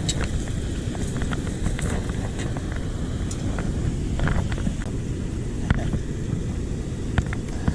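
Steady low outdoor rumble with scattered light clicks and taps at irregular moments.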